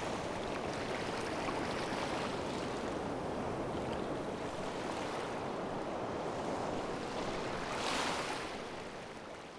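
Sea waves washing in steadily, with one louder surge about eight seconds in, then fading away.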